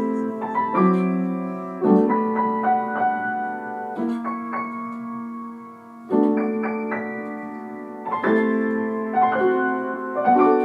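Piano music: slow sustained chords, a new chord struck roughly every two seconds and left ringing.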